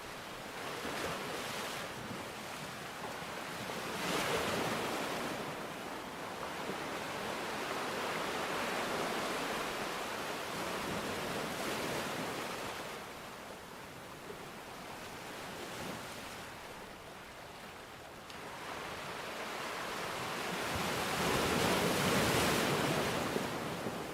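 Rushing water noise that swells into slow, louder surges and then eases off, three times over.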